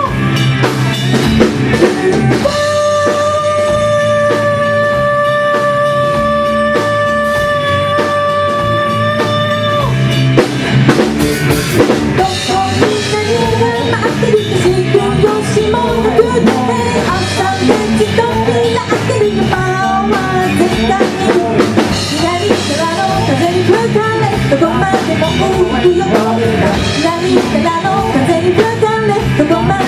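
Rock band playing live: drum kit and electric guitar, with a long held note for about the first ten seconds, then a wavering sung melody over the band.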